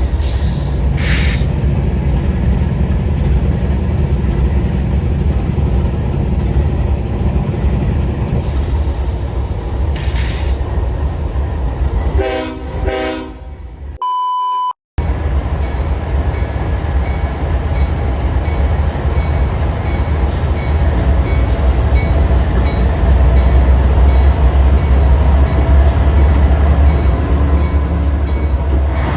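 Train passing close by with a heavy, steady rumble, and a short horn sounding about twelve seconds in. Just after the horn the sound cuts out for about a second into a single steady beep, then the train's rumble returns and grows louder near the end.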